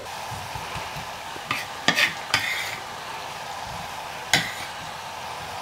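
Chopped vegetables sizzling in hot oil in a stainless steel pot as diced aubergine is added, a steady frying hiss. A few sharp knocks and scrapes of utensil against pot or board, a cluster about two seconds in and one more about four seconds in.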